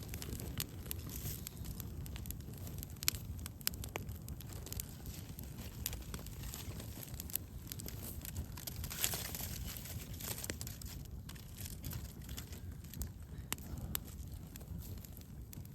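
Wood campfire crackling, with sharp irregular pops and snaps from the burning wood over a steady low rumble.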